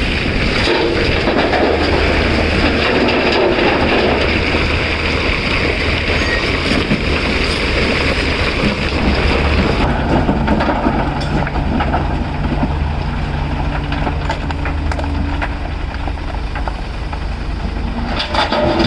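CAT 336 hydraulic excavator working, its diesel engine running under load with rock and dirt grinding and clattering. About ten seconds in, the gritty noise eases and the engine's steady drone stands out; a burst of clattering comes near the end.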